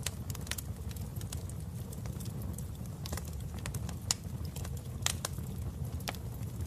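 Wood fire crackling in a fireplace: a steady low rumble of flames with irregular sharp pops and snaps, the loudest about four and five seconds in.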